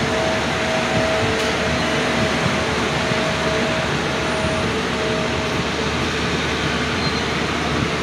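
Steady running noise of an Indian Railways sleeper coach passing through a station without stopping, heard at the open coach door: a constant rush of wheels on rail and wind. A faint on-and-off whine sits under it for most of the first six seconds.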